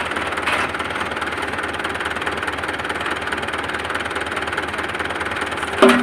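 Tractor diesel engine running steadily at idle, an even rumble that does not rise or fall.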